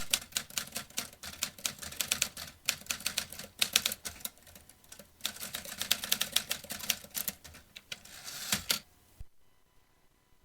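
Vintage typewriter keys struck in quick runs with brief pauses. About eight seconds in comes a longer rasping sound, then a single knock, and the typing stops.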